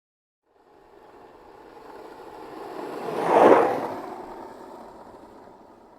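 A single pass-by sound effect: a noisy rush that swells over about three seconds, peaks sharply about three and a half seconds in, then fades away.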